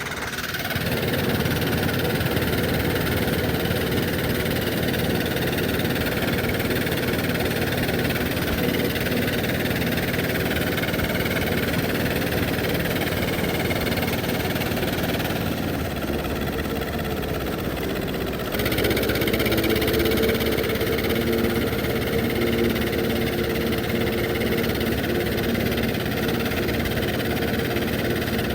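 Old Zetor tractor's diesel engine running steadily. About two-thirds of the way through, it abruptly becomes a little louder, with a clearer hum.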